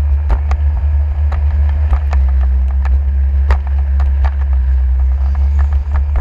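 Jet ski underway, with heavy wind rumble on the microphone and scattered sharp knocks, several a second at times.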